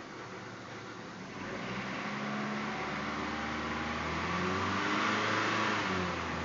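1995 Dodge Stratus's 2.0-litre four-cylinder engine running shortly after a cold start on a freezing day, its engine speed rising about two seconds in, held up for a few seconds, then falling back toward idle near the end.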